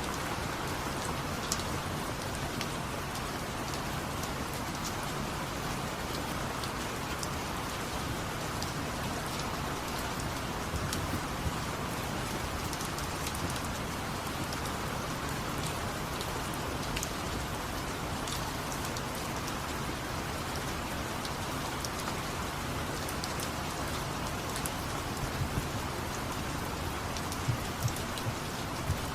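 Steady rain falling, an even hiss with scattered drops ticking, and a few louder drip clicks near the end.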